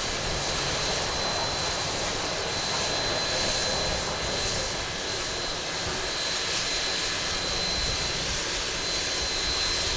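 Heavy machinery running steadily while a steam locomotive's tender is filled with coal. It makes a low rumble and a hiss with a thin, steady high whine over it, and there are no separate impacts.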